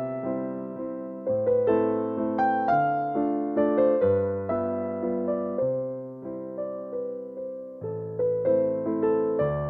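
Background music: a soft electric piano playing a gentle melody over chords, each note struck and fading.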